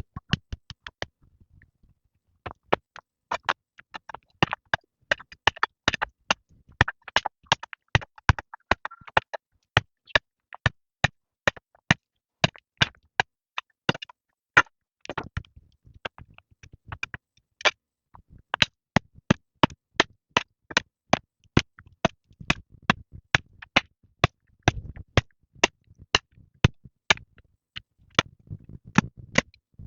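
Repeated sharp knocks from steady hand-tool work, about three a second, starting a couple of seconds in and running on with only short breaks.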